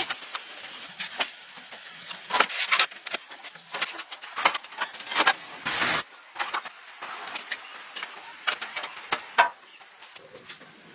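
Irregular clicks, knocks and short scrapes of tools and parts being handled. There is a longer scrape about two and a half seconds in and a brief rush of noise near six seconds.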